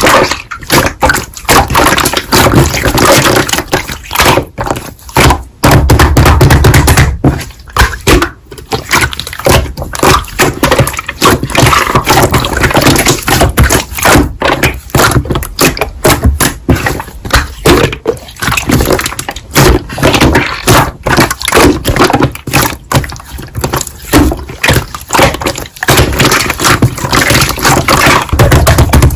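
Slime being squeezed and pressed by hand, with dense, irregular sticky popping and clicking as air pockets burst.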